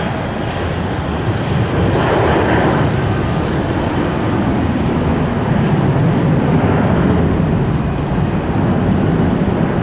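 Jet airliner's engines at takeoff power, a loud steady rumble that swells about two seconds in and again around six to seven seconds.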